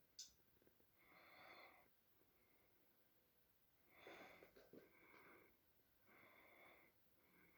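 A cat's faint, wheezy breathing: a breath every one to two seconds, with a short sharp click just after the start.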